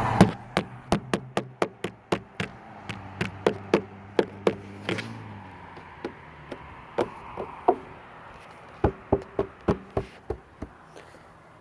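A rapid series of sharp taps or knocks, about three or four a second, stopping for a moment about five seconds in and then starting again, with a low steady hum that fades out at the first pause.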